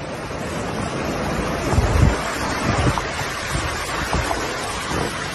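Rough storm sea surging and breaking, with strong wind buffeting the microphone in low rumbling gusts. The noise fades up over the first two seconds.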